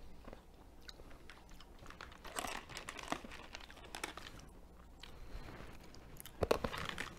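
Hard candy-coated peanuts crunched and chewed between the teeth: a scatter of small crisp cracks, with a louder burst of crunching near the end.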